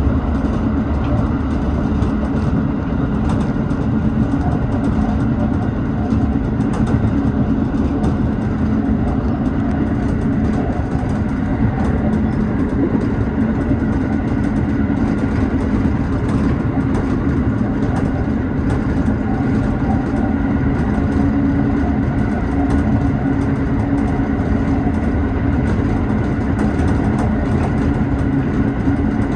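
Tobu 6050 series electric train running steadily at speed, heard from inside the leading car: a continuous rumble of wheels on rail and the drive underneath.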